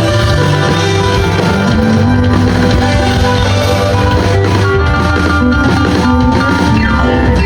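Live rock band playing: electric guitar, bass and drum kit, loud and continuous.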